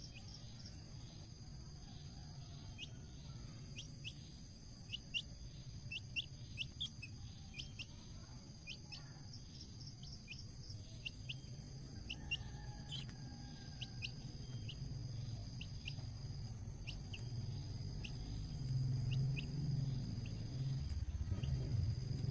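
Small birds chirping: short, high chirps come at irregular intervals, sometimes several in quick succession, over a steady high insect trill. A low rumble grows louder near the end.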